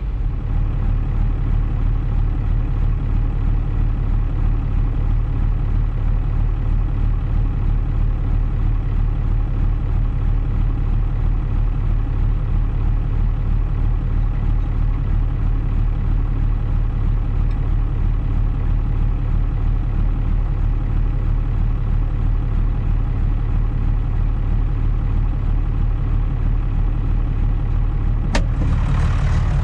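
John Deere 3140's six-cylinder diesel engine idling steadily, with a single sharp click near the end.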